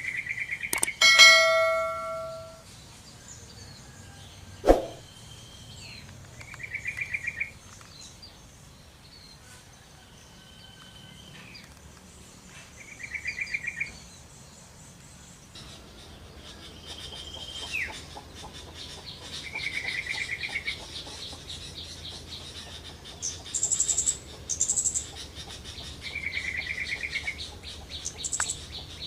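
Yellow-vented bulbul calling in short, rapid bubbly phrases, repeated about every six or seven seconds. Near the start there are a couple of sharp clicks and a single bell-like ringing ding. From about halfway, a steady high pulsing buzz runs under the calls, with a few thin high notes near the end.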